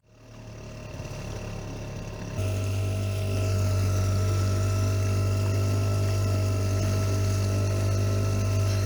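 Small outboard motor on a dinghy running steadily, a low, even drone that comes in louder about two seconds in.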